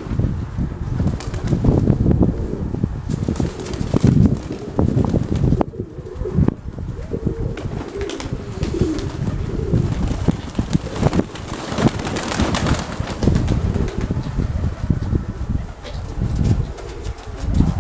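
Nikolaev pigeons cooing, with gusty wind buffeting the microphone.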